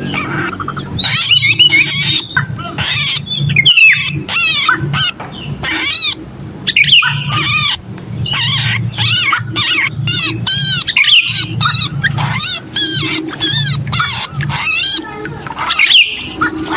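Sooty-headed bulbul (kutilang) giving rapid, harsh, chattering distress calls, the 'kejepit' calls of a bulbul caught or pinched, which are used as a lure for other bulbuls. A steady low hum runs underneath.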